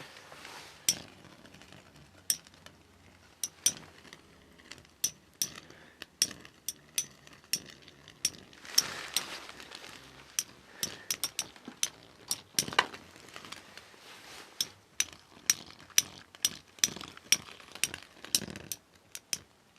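Spinning Beyblade metal tops clashing in battle: sharp, irregular metallic clinks that come faster toward the end. A brief rushing noise comes about nine seconds in.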